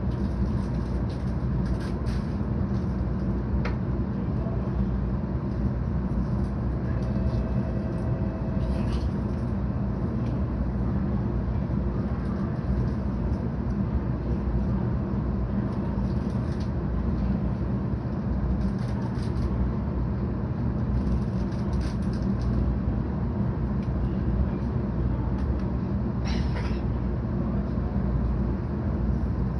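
Steady low rumble and hum inside a 700 series Shinkansen passenger car, with a few faint clicks and a short steady tone about a third of the way in.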